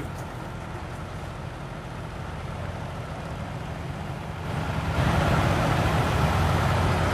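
Semi truck's diesel engine idling, a steady low rumble that gets louder about five seconds in.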